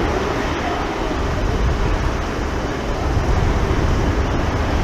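Steady jet roar from an Airbus A380-841's four Rolls-Royce Trent 900 engines as the airliner lands in strong wind, with a heavy, fluctuating rumble of wind buffeting the microphone.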